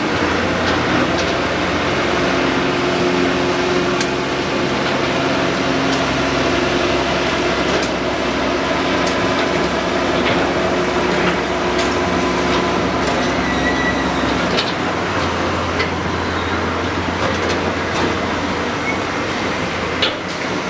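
Excavator's diesel engine running steadily, with scattered short metallic clicks and clanks over it. The engine's low note changes about three-quarters of the way through.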